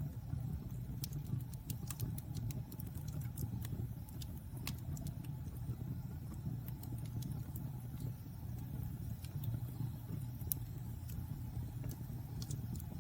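Wood fire burning in a fireplace: a steady low rumble of flame with scattered sharp crackles and pops, a few a second and irregular.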